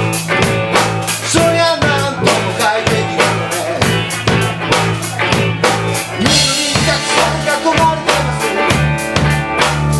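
Live band playing with a full drum kit, bass drum and snare keeping a steady beat; a cymbal wash comes in about six seconds in.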